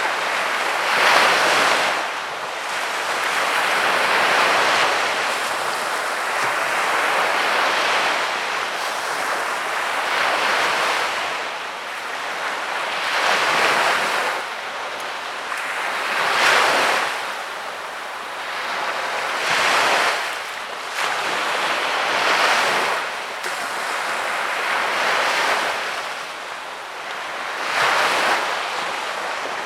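Sea waves breaking and washing up on the beach, a new surge of surf every few seconds over a continuous wash of water.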